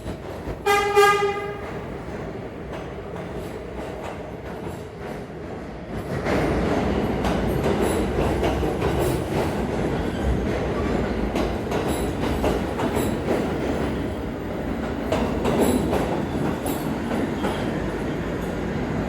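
A New York City subway train of R46 cars sounds its horn in one short blast about a second in. From about six seconds in it comes through the station, its wheels clattering and rumbling on the rails.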